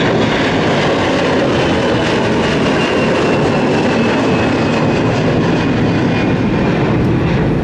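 Jet airliner engines running loud and steady, with a thin high whine slowly falling in pitch.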